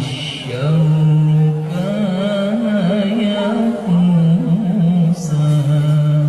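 A male qari reciting the Quran in melodic tilawah style, holding long drawn-out notes with wavering ornaments, broken by a brief breath about five seconds in.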